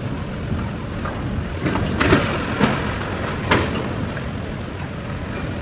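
Water from a high-rise's rooftop swimming pool pouring down the side of the building, shaken out by the earthquake: a steady rushing noise like heavy rain, with a few sharp knocks about two, two and a half and three and a half seconds in.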